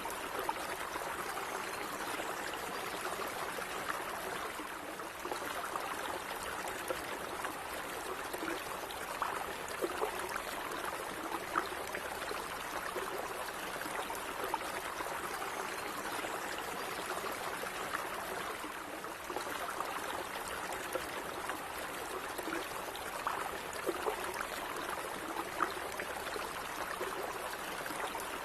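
Gently running stream water, a steady rushing murmur with small splashes and gurgles scattered through.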